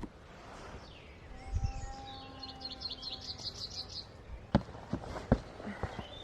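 A songbird singing a quick run of about nine high repeated notes, followed by a few sharp knocks near the end.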